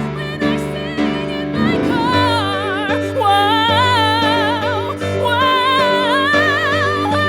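Female singer holding long, wordless notes with wide vibrato over steady instrumental accompaniment, two held notes one after the other, the second beginning about five seconds in.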